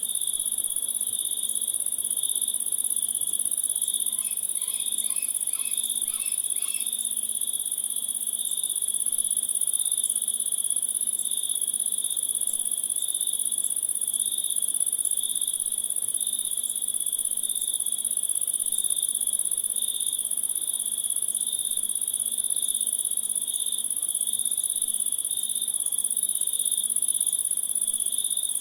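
Chorus of crickets and other insects: a steady high-pitched trill with a pulsing chirp lower down. About four seconds in, a short run of about six quick repeated chirps from another creature sounds over it for a few seconds.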